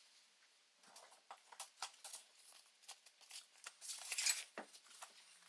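Light clicks and taps of small parts and tools being handled, with a longer scraping rasp about four seconds in.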